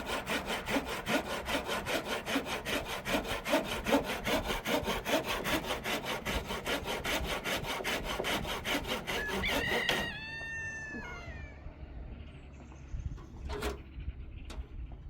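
Hand saw cutting through a wooden roof beam in steady back-and-forth strokes, about four a second, stopping about ten seconds in. As it stops a rooster crows once, and a sharp knock follows a few seconds later.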